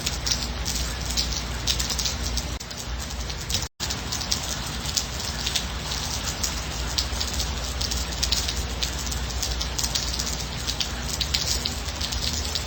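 Steady light rain, an even hiss with many separate drop strikes. The sound cuts out completely for an instant about four seconds in.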